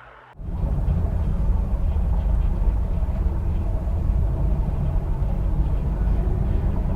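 A loud, steady low rumble that starts abruptly about half a second in.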